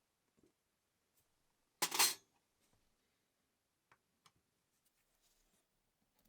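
A brief clatter of a small hard object set down or dropped onto a hard surface, two quick knocks about two seconds in, followed by two faint ticks a couple of seconds later.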